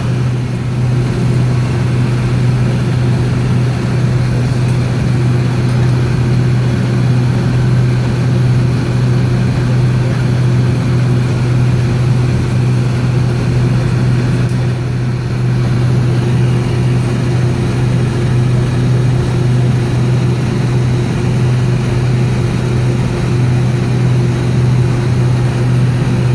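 Steady cabin noise inside a Boeing 757-232 on the ground, its Pratt & Whitney PW2037 engines running at low power: a constant deep hum with a fainter steady higher tone over an even rush of air.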